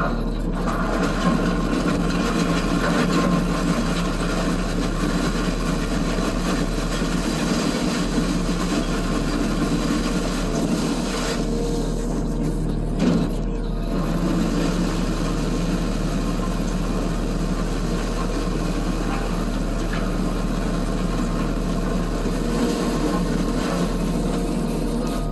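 Case SV280 skid steer's diesel engine running steadily, with one knock about halfway through.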